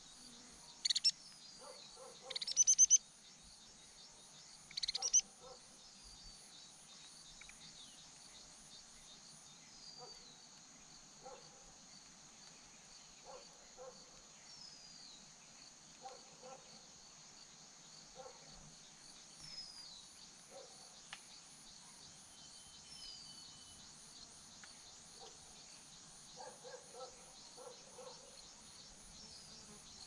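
Small birds calling: a few loud, sharp high chirps in the first five seconds, then soft short calls every second or two and faint falling whistles. A steady high insect drone runs underneath.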